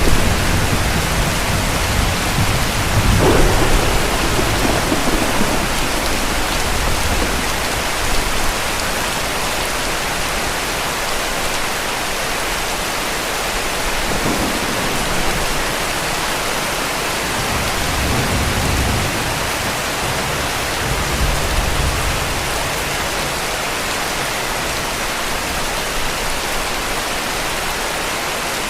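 Heavy rain falling steadily, with distant thunder rumbling and dying away in the first few seconds. Fainter low rumbles of thunder return about two-thirds of the way through.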